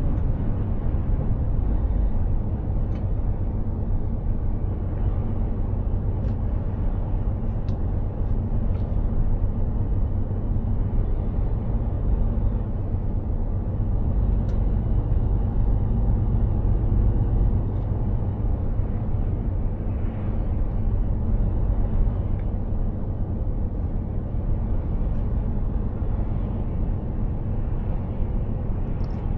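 Mercedes-Benz Actros 2763 truck driving at a steady pace: its diesel engine drones evenly together with low road rumble, with a few faint small ticks.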